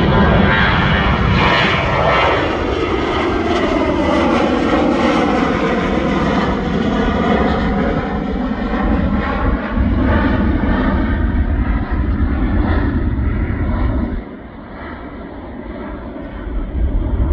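Boeing 737-700's CFM56-7B turbofan engines running loud as the jet passes by, the roar sweeping in pitch. It drops off sharply about fourteen seconds in.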